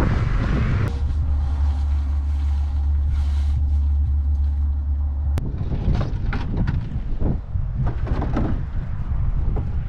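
Strong wind buffeting the microphone, a heavy low rumble that changes abruptly about halfway through to gustier rumble broken by many short bursts of noise.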